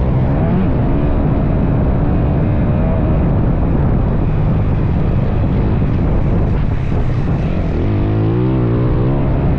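Dirt bike engine running under riding load, its pitch rising and falling with the throttle, over a dense rushing noise; the revs climb again near the end.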